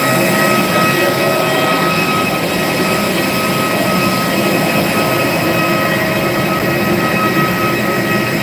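Aircraft turbine running steadily: a loud, even rush of noise with a high, steady whine over it.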